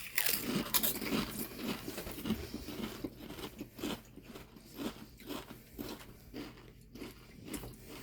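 Pringles potato crisps being bitten and chewed close to the microphone: a string of crisp crunches, densest in the first couple of seconds, then slower, irregular chewing.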